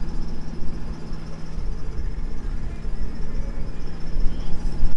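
Low, uneven rumble of wind buffeting the microphone aboard a sailboat underway.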